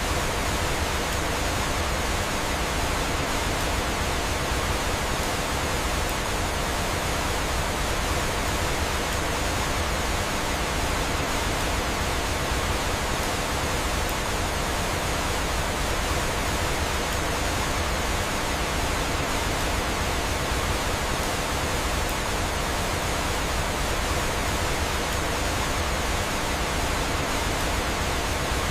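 Steady rushing of flowing water, like a waterfall: an even hiss that does not change.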